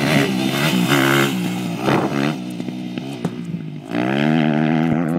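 Motocross dirt bike engine running hard, its note shifting as the throttle changes. It eases off about two seconds in and comes back loud about four seconds in.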